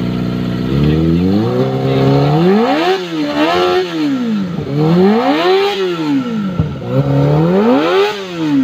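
Kawasaki ZX25R's inline-four engine through an aftermarket Valcon exhaust, idling briefly and then revved four times, the pitch climbing and falling in repeated swells.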